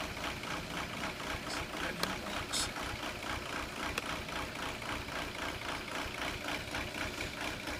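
2002 VW Jetta TDI's 1.9 L four-cylinder turbodiesel idling, with evenly repeating diesel pulses and a few faint clicks. The owner puts its intermittent rough idle down to the injection pump, whose quantity adjuster (N146) has reached its upper limit.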